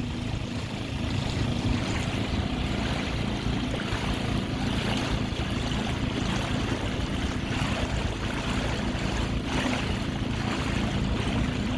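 Dinghy outboard motor running at a steady speed, with water rushing past the hull and wind on the microphone.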